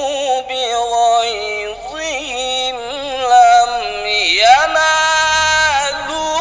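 A male qari's voice in melodic Quran recitation (tilawah), drawing out long ornamented notes with a wavering vibrato. About four seconds in, the voice dips and sweeps upward into a long held high note.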